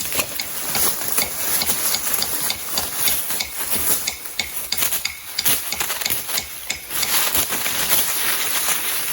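Irregular wooden knocks, snaps and rustling of sticks and brush being handled, over a steady high-pitched drone of forest insects.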